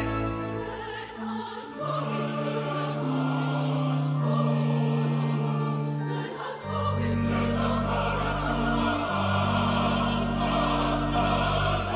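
Choir singing with an orchestra in long, sustained chords; the bass shifts to new chords about a second in and again about halfway through.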